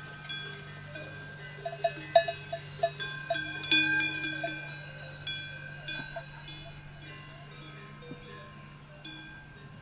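Livestock bells clanking irregularly, several ringing at once and busiest a couple of seconds in, over a low steady hum.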